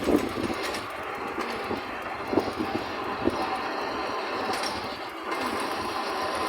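Miniature railway train running along the track, heard from on board: a steady rattling rumble of the wheels with occasional knocks over the rail joints.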